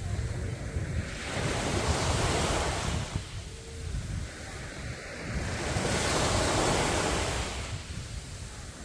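Sea waves breaking and washing up on a sandy beach, swelling twice, about four seconds apart, with a steady low wind rumble on the microphone.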